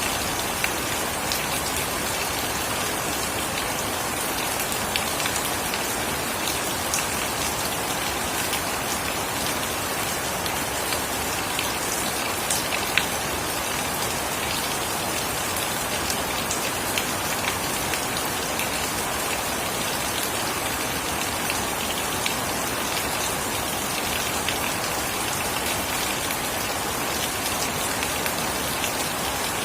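Steady rain falling, an even hiss with scattered sharp drop ticks and no thunder.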